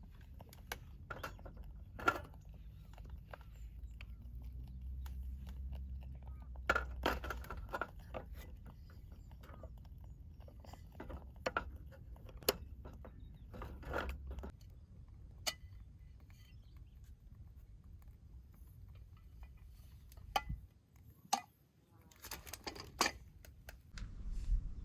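Scattered clicks, knocks and light clatter of small objects being handled, a few at a time with pauses between, over a steady low outdoor rumble.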